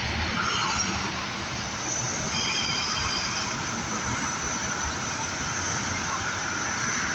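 Steady vehicle noise, engine and road rumble, with faint short high-pitched squeaks about two seconds in.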